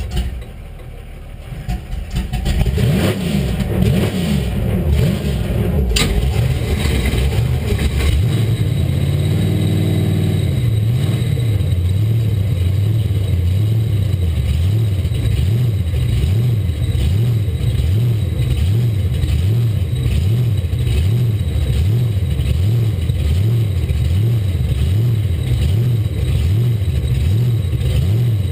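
Supercharged V8 of a 1967 Camaro drag car, heard from inside the cockpit. It builds a couple of seconds in, swells briefly about ten seconds in, then settles into a loud idle with a steady rhythmic lope of a little over one pulse a second. There is a sharp click about six seconds in.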